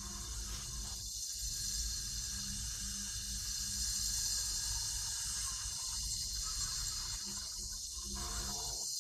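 A meditative recording shared over a video call, heard as a steady rushing, water-like hiss with a low hum and a faint pulsing low tone beneath it.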